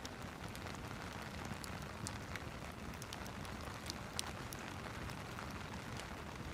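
Steady rain mixed with a crackling fireplace fire: an even hiss of rain with many small irregular pops and clicks scattered through it, one sharper pop about four seconds in.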